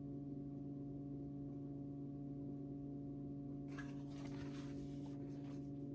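A steady low hum of several held pitches, with a soft rustle about two-thirds of the way through.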